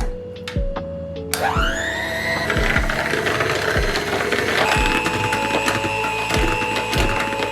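A small electric kitchen motor starts about a second in, its whine rising as it spins up. It then runs steadily, with its pitch stepping up a little past the middle, over background music with a steady beat.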